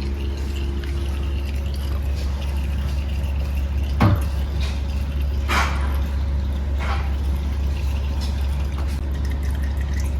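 Warm engine oil draining from a motorcycle's open drain-plug hole into a drain pan, with a few separate drips striking the oil in the pan around the middle, over a steady low hum.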